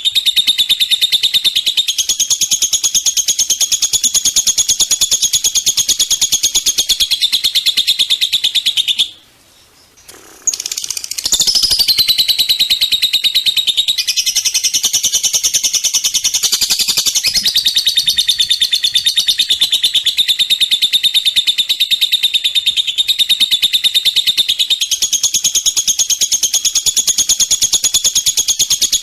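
Recorded songbird song: a continuous run of rapid, high-pitched chirps and trills, breaking off for about two seconds around nine seconds in before resuming.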